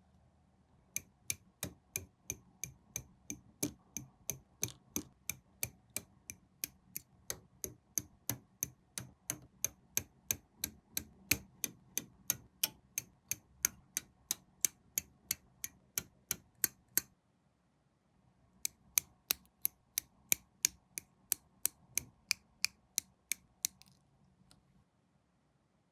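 Sharp, evenly spaced clicks, about three a second, in two long runs with a short pause between them.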